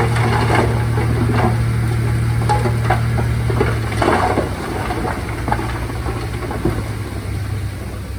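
Heavy diesel engine running steadily, its drone easing off about halfway through, with scattered knocks and clanks over it.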